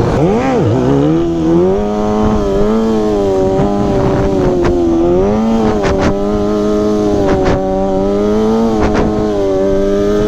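Sportbike engine revving under the rider's throttle. Its pitch drops sharply about half a second in, climbs back and then holds with small rises and falls, with a few short sharp clicks over the second half.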